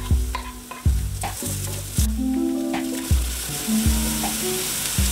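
Chopped onion and garlic frying in a pan: a sizzle that grows stronger about two seconds in. Background music with a steady beat runs underneath.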